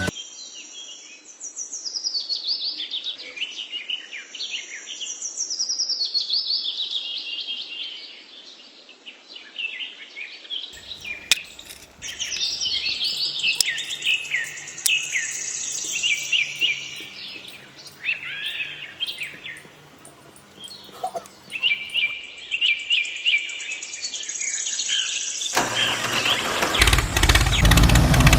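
Many small birds chirping and twittering, with quick overlapping calls. Near the end an engine or motor starts running, much louder than the birds.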